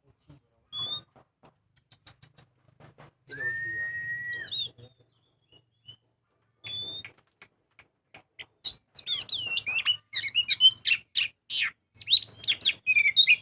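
Oriental magpie-robin (kacer) singing: scattered whistles and clicks, including one long held whistle, then from about nine seconds in a fast, varied, loud run of song phrases.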